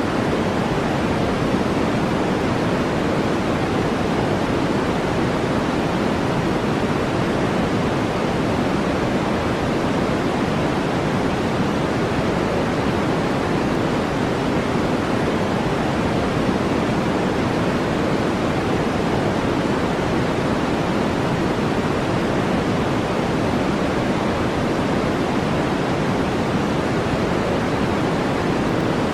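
Steady brown noise: an even, unbroken hiss, deep and muffled, that does not change.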